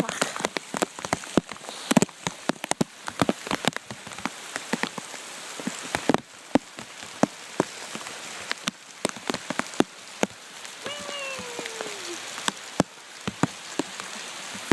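Steady rain with many raindrops tapping sharply and irregularly close to the microphone, as drops strike the plastic bag wrapped around the phone. About eleven seconds in, a short falling tone sounds briefly over the rain.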